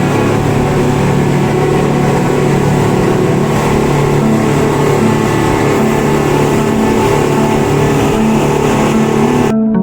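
Motorboat engine running at a steady speed with rushing wind and water noise. It cuts off abruptly near the end.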